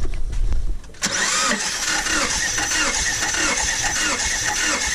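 Subaru engine cranked over on the starter with its spark plugs out for a compression test, starting suddenly about a second in and running with an even, rhythmic pulsing.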